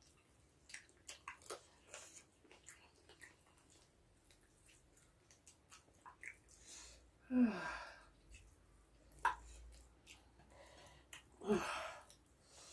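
Close-up chewing and small wet clicks of someone eating spicy chicken feet. About seven seconds in, and again near the end, comes a breathy sigh whose pitch falls, a pained exhale at the chilli heat.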